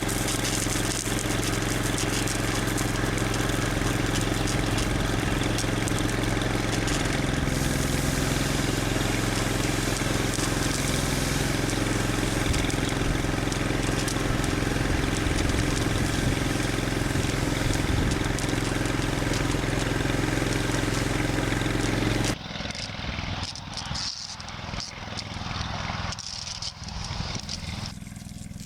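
Fire truck engine running steadily under a loud, even hiss. It cuts off abruptly about 22 seconds in, leaving quieter rattling and scraping.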